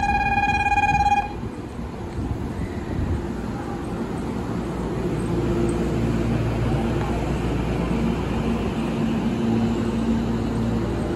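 JR West electric commuter train running alongside a station platform as it pulls out: a steady low rumble with a faint motor hum. A steady electronic tone sounds at the start and cuts off about a second in.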